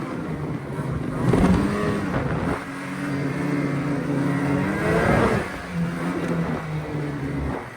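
A vehicle engine running under load and revving, its pitch shifting and rising briefly about a second and a half in and again around five seconds in.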